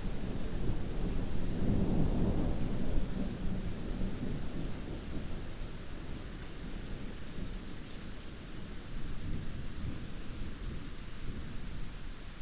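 Heavy rain falling steadily, with a low rumble of thunder that swells in the first few seconds and fades away by about halfway through.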